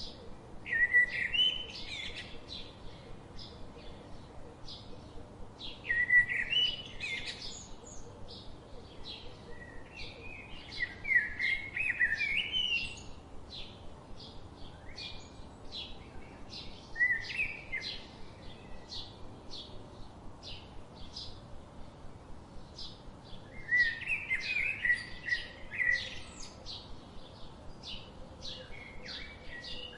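Birdsong: a steady run of short high chirps, several a second, with louder warbling phrases breaking in about every five or six seconds.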